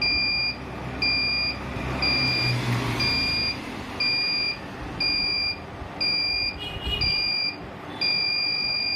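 Wet grinder timer controller's electronic alarm beeping, a high-pitched beep about once a second, each about half a second long, with a longer beep near the end. The alarm signals that the set time has run out and the motor has switched itself off.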